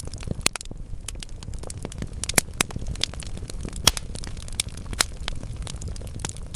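Wood fire in a fireplace crackling, with a low steady rumble and irregular sharp pops from the burning logs, a few of them louder than the rest.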